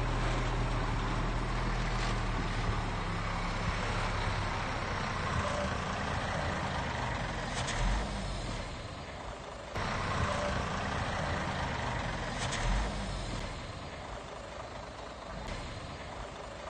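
Heavy diesel earthmoving machinery running steadily, with engine and track noise and brief hisses; the sound changes abruptly about ten seconds in.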